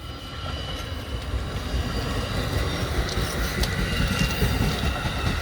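Amtrak San Joaquin passenger train approaching and rolling past, its low rumble building over the first couple of seconds and then holding steady, with faint high steady tones over it.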